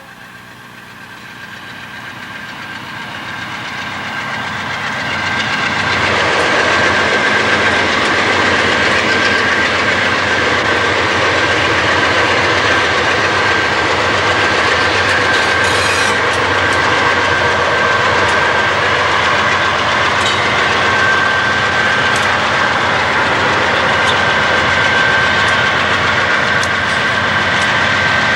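A train passing close by. The rumble and clatter of its wheels on the rails swells over the first six seconds and then holds steady and loud, with a thin, steady high-pitched ringing tone over it.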